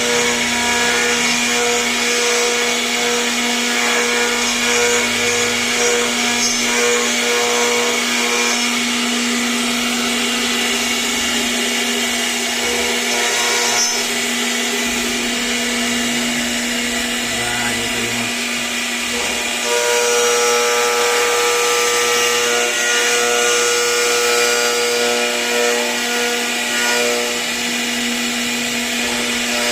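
CNC router running steadily with a constant-pitched spindle tone, its bit cutting into wood.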